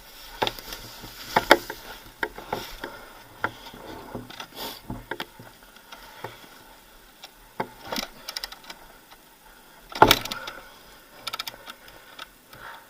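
Scattered clunks and knocks from an enduro motorcycle whose engine is stalled, with the loudest clunk about ten seconds in. No engine note catches.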